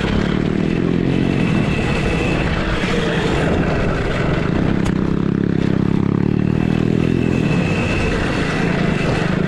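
Small motocross bikes running on the track: a steady motor drone whose pitch shifts as they accelerate and ease off.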